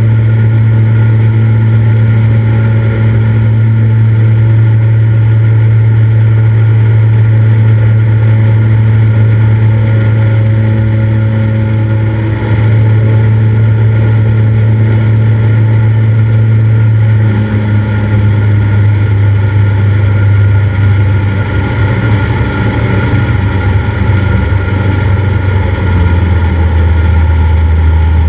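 Cessna 172's piston engine and propeller running with a loud, steady drone. About two-thirds of the way through, the pitch wavers and drops as the engine slows, then falls lower again near the end.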